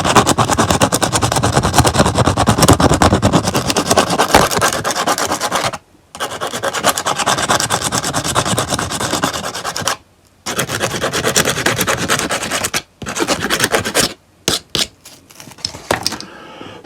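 Sandpaper rubbed rapidly back and forth over a plastic action figure's head, smoothing the rough edges left where a moulded crest was cut off. The sanding stops briefly three times and ends in a few scattered strokes.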